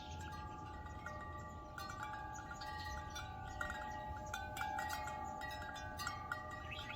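Wind chimes ringing in a breeze: several different pitched tones struck again and again, each ringing on and overlapping the others.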